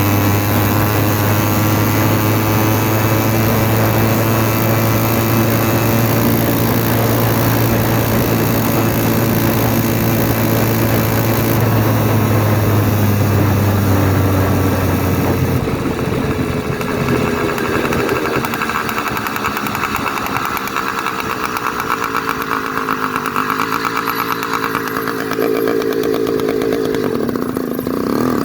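Zeda 66/80cc two-stroke motorized-bicycle engine running with its exhaust cap and air-filter cover off, under load at a steady pitch. About halfway through it eases off, the pitch gliding and wandering, then it picks up again near the end.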